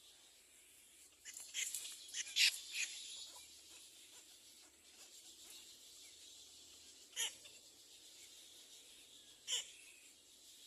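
Short, sharp bird chirps from birds at a nest: a quick burst of several between about one and three seconds in, then two single chirps later on.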